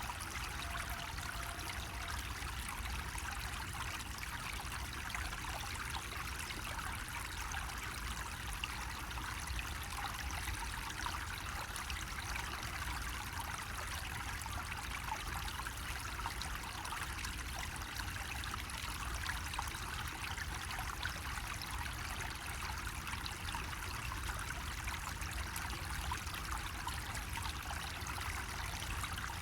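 Water running steadily from a bamboo faucet, an even, unbroken trickling splash over a low rumble.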